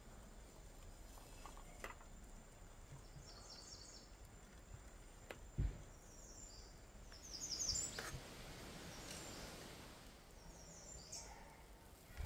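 Birds chirping in short, high, repeated phrases a few times over a faint outdoor background. A single dull thump about halfway through, with a few softer knocks.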